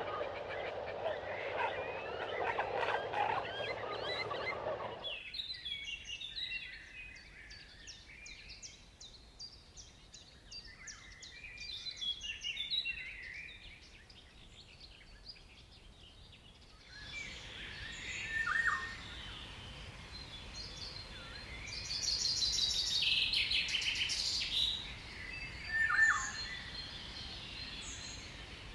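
A run of bird calls from separate recordings. A dense, lower chattering fills the first five seconds. Rapid high chirping follows. After a change near 17 s come short calls, a fast high trill, and two short descending calls.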